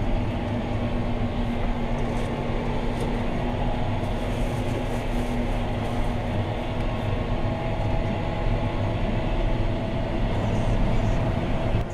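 John Deere 6215R tractor's six-cylinder diesel engine running steadily under load while pulling a plough, heard from inside the cab.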